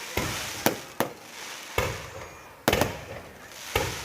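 Fireworks exploding: about six sharp bangs at uneven intervals, each trailing off in an echo.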